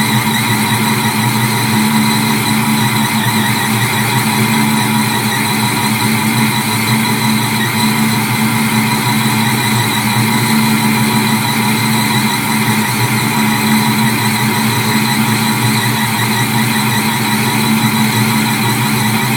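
429 Hemi V8 with a 3-litre twin-screw supercharger running at a steady idle, its pitch and level holding even with no revving.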